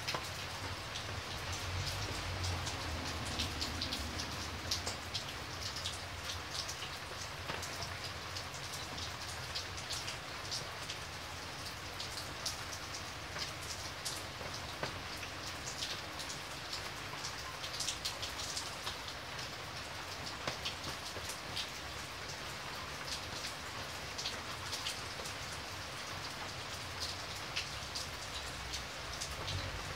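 Heavy rain falling steadily, the drops splashing close by into water pooled on a flat surface: a dense, even hiss with many small drop impacts ticking through it.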